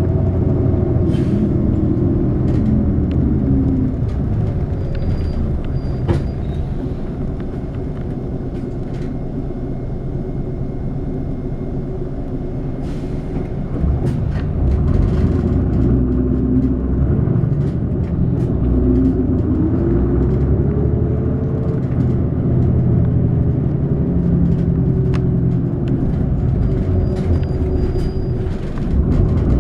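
City bus engine and road noise heard from inside the cabin. The engine note rises and falls as the bus pulls away and changes gear, quieter for a stretch early on and picking up again about halfway through, with occasional small rattles.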